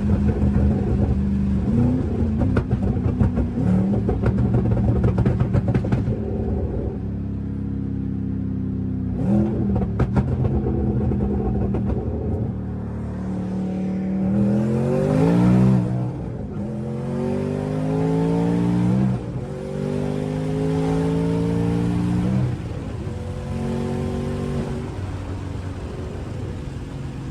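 Twin-turbocharged 2014 Ford Mustang GT's 5.0 V8 under way, first holding a steady loud pitch, then accelerating with its pitch climbing and dropping back sharply five or six times in the second half, as it goes up through the gears.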